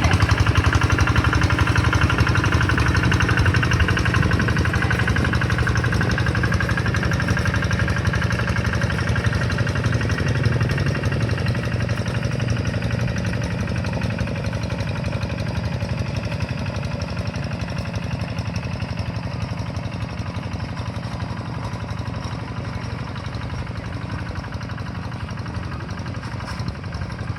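Quick G1000 hand tractor's Kubota RD85 single-cylinder diesel engine running steadily at work levelling soil, gradually growing fainter.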